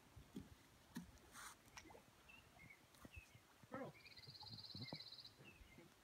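Near silence, with faint scattered bird chirps and a short, high, buzzing trill about four seconds in.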